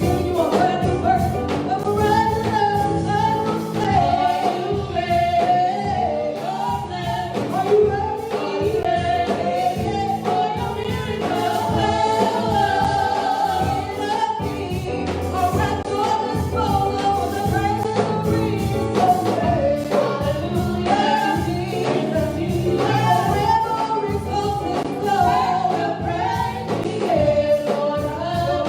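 Gospel worship music: voices singing a melody over band accompaniment with a steady beat.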